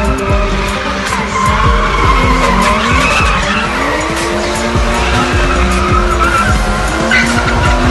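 Car engine revving with tyres squealing in a skid, pitched squeal lines sliding up and down over the engine's rumble.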